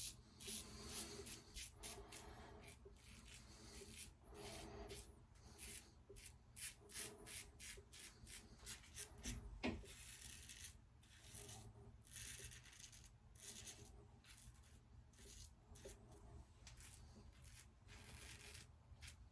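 Merkur double-edge safety razor scraping through lathered whiskers on the neck in many short, faint strokes, cutting partly against the grain.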